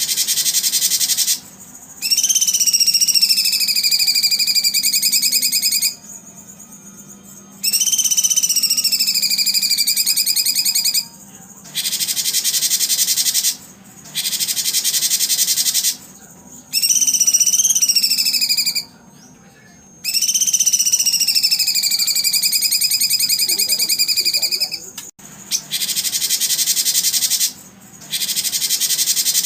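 Repeated bursts of loud, high-pitched buzzing animal calls, each lasting a few seconds with short pauses between. Several bursts carry a whistled tone that dips at the start and then holds steady.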